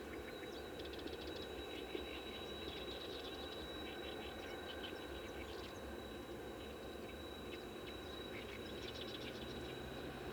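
Wild songbirds chirping in short, rapid trilled bursts, several times over, above a steady high thin tone and a low background rumble.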